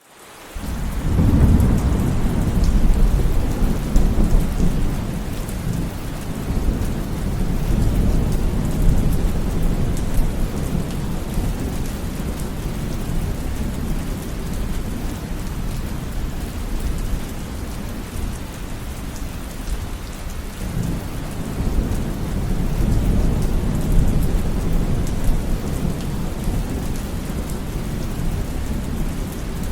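Thunderstorm: steady rain falling, with thunder rumbling low twice, a long roll starting about a second in and another about two-thirds of the way through.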